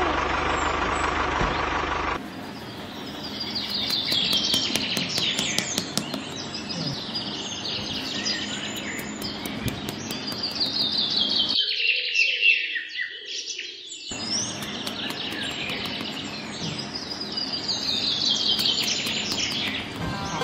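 Several small birds chirping and trilling over a faint steady hiss. A different steady sound fills the first two seconds, then cuts off abruptly.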